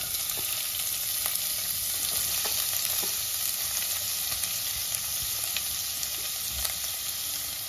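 Chopped onions sizzling as they drop into hot oil with frying garlic and green chillies in a steel kadhai: a steady frying hiss that jumps up as the onions go in, with a few faint ticks.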